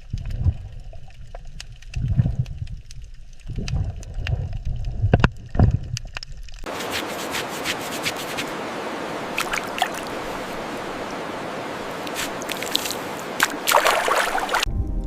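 Water sounds. First come low rumbling surges with a few clicks. About six and a half seconds in, an abrupt change brings a steady hissing fizz with scattered crackles, like bubbling water, which stops shortly before the end.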